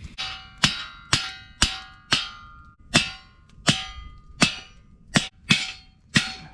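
A steel grill post being hammered into the ground: about ten hard metal-on-metal blows, roughly two a second with a short pause partway through, each ringing briefly.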